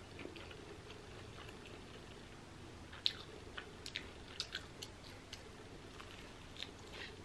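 Faint close-up chewing of pizza crust: soft, scattered mouth clicks and smacks, with another bite into the crust near the end.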